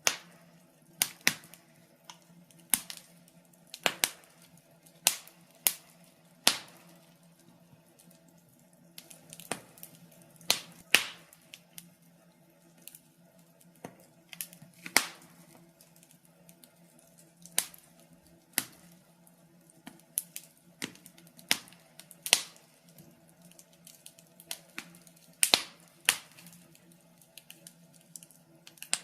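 Wood fire crackling in a fireplace: irregular sharp pops and snaps, a few every couple of seconds and some much louder than the rest, over a faint steady low hum.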